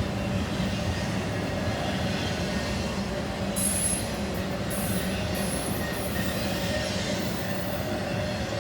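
Intermodal freight train rolling past on steel rails, a steady rumble with a high wheel squeal that comes and goes between about three and six seconds in.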